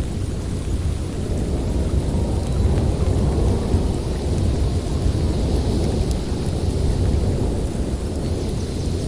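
Snowstorm wind blowing hard: a steady deep rumble with a hissing gust that swells in the middle.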